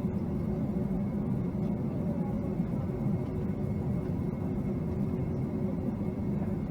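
Steady cabin noise inside a Boeing 757-200 on the ground after landing, with its engines idling: an even low rumble with a faint steady whine over it.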